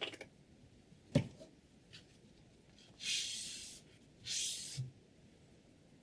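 A sharp click and then a louder knock of hard parts on the sharpening rig, followed by two hissing strokes of a sharpening stone drawn along a steel kitchen-knife edge, each under a second long.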